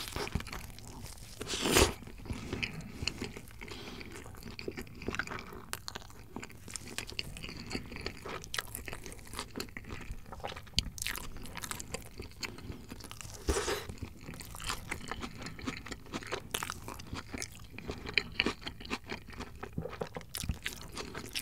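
Close-up mouth sounds of chewing a mouthful of burger: irregular wet crunching and crackling of crisp lettuce and bun. The crunches are loudest about two seconds in and again around thirteen seconds.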